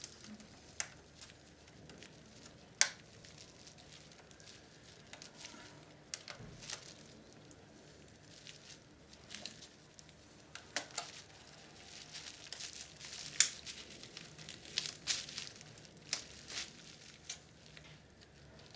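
Scattered sharp clicks and taps with faint rustling in between, from the plastic parts and circuit board of a vintage Philips radio cassette recorder being handled and worked loose during disassembly.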